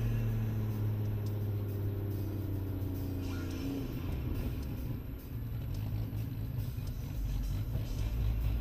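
Suzuki Cappuccino's 657cc turbocharged three-cylinder engine, heard from inside the small cabin as the car slows. Its steady note falls gently in pitch, then about four seconds in gives way to a rougher low rumble as the car coasts down toward a stop.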